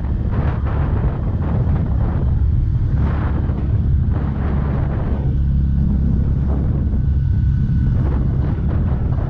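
Bajaj Pulsar N160 single-cylinder motorcycle engine running under way, with wind buffeting the microphone in gusts. The gusts ease for a few seconds around the middle, leaving the steady engine sound clearer.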